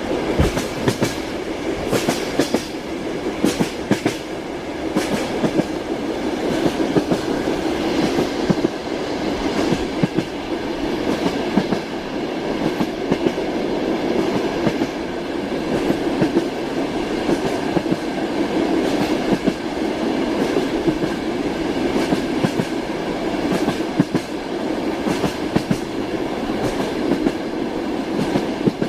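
Train wheels running over rail joints, a steady rumble with repeated clickety-clack knocks, often in quick pairs, heard from inside a moving railway carriage.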